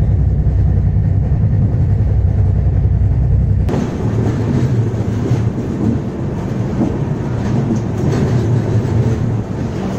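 Express train with LHB coaches running along the track: a steady low rumble with rail clatter. The sound changes abruptly about four seconds in, becoming brighter with faint clicks.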